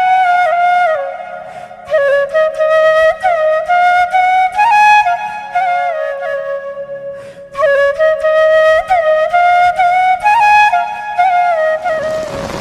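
Background music: a solo flute plays a slow, ornamented melody with sliding notes in phrases, pausing briefly twice, over a soft low accompaniment.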